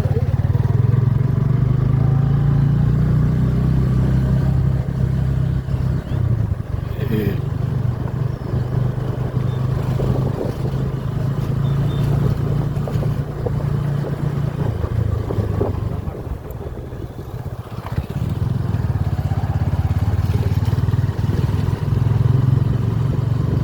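Motorcycle engine running steadily while riding. It eases off and goes quieter for a couple of seconds about two-thirds of the way through, then picks up again.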